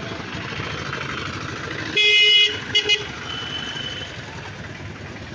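A vehicle horn sounds one half-second blast about two seconds in, followed quickly by two short toots, over steady street traffic noise.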